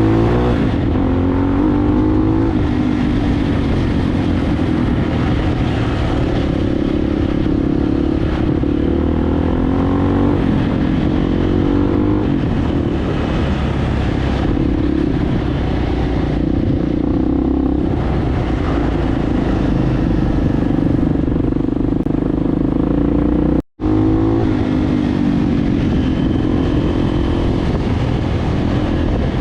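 Enduro motorcycle engine running while riding, its pitch rising and falling with the throttle. The sound cuts out for an instant about two-thirds of the way through.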